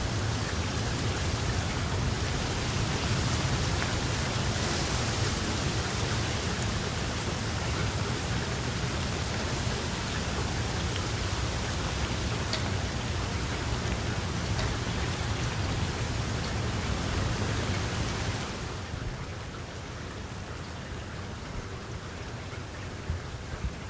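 Steady rain falling, an even hiss. About three-quarters of the way through it turns softer and duller, with a few single drops ticking near the end.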